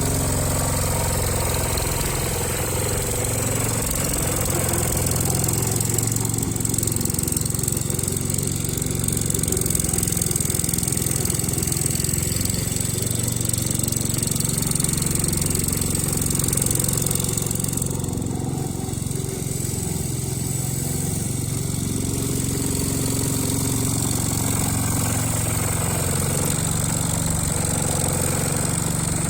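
Ford 100 garden tractor's small gasoline engine running steadily, with a slight change in its sound about two-thirds of the way through. It runs after years of sitting, on freshly cleaned points and carburettor.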